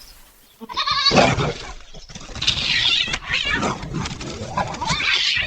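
Animal cries, loud and harsh, starting about a second in after a short lull.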